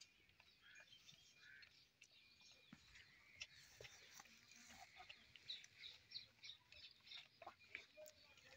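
Near silence with faint, scattered bird chirps, more frequent in the second half.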